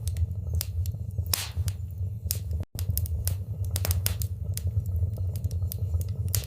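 Fire burning in a fireplace, crackling with irregular sharp pops over a steady low rumble. The sound cuts out for an instant a little under halfway through.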